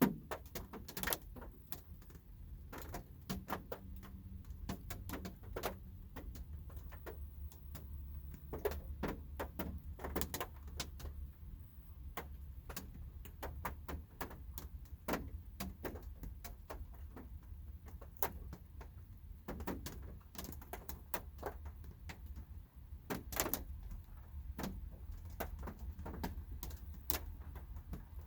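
Light rain heard from inside a car: scattered raindrops tapping irregularly on the roof and glass, over a low steady hum.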